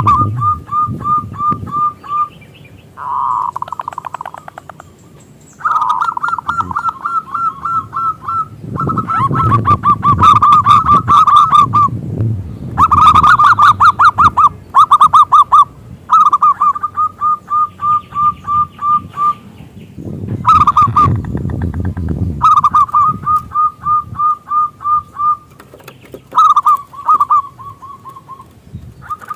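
Zebra dove (perkutut) singing: phrase after phrase of quick repeated cooing notes, separated by short pauses.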